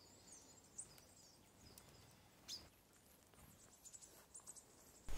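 Faint, high bird chirps from small songbirds over quiet woodland, a few short calls scattered through, the clearest about two and a half seconds in.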